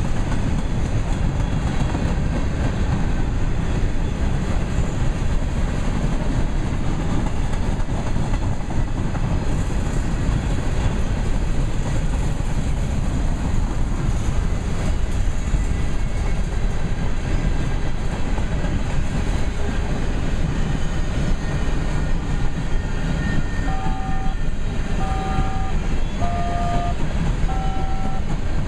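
Covered hopper cars of a freight grain train rolling past close by: a steady rumble and clatter of steel wheels on the rails.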